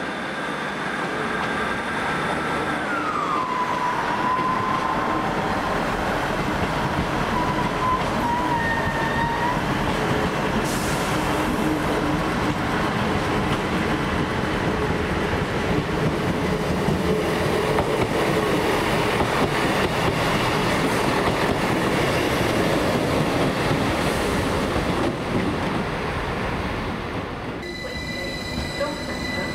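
Train moving through a station at close range: a steady, loud rumble of wheels on rail. About three seconds in, a high whine drops in pitch and carries on until it fades out around ten seconds in. Near the end the rumble eases and a steady high-pitched hum sets in.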